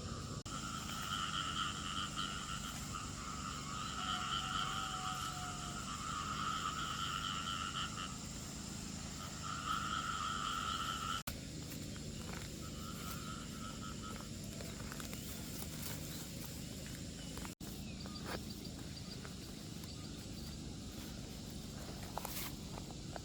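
A wild animal, insect or frog, calling in a pulsing trill. The calls come in long stretches through the first ten seconds or so, then one shorter, fainter call near the thirteen-second mark, over a steady low background noise.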